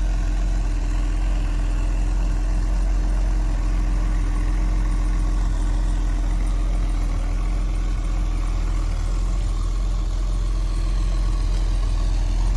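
Mercedes-Benz 280SE idling steadily, heard from behind the car at the exhaust, with the engine still warming up about a minute after a cold start.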